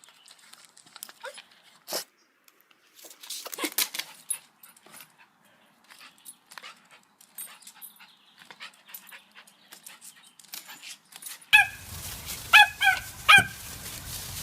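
Faint scattered clicks and rustling, then from about eleven seconds in a dog barking in a quick run of short, high yips.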